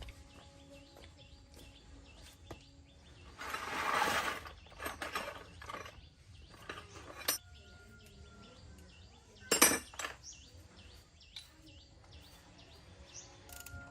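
Scattered clinks and knocks of metal tools and parts being handled, with a short scraping or rushing burst about three seconds in and a sharp metallic clank near ten seconds.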